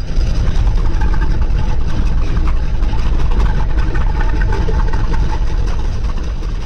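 Car engine running with a steady, deep rumble, starting to fade near the end.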